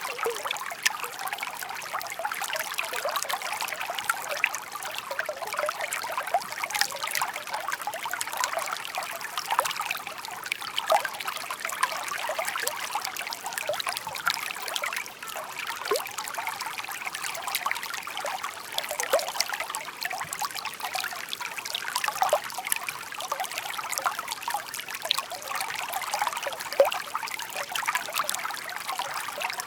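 A shallow, murmuring stream: water trickling and bubbling steadily over stones, with lots of small splashy gurgles.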